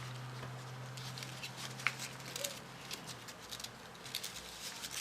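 Paper being handled and folded: many small crisp rustles and clicks at an uneven pace. A low steady hum runs underneath and fades out a bit past halfway.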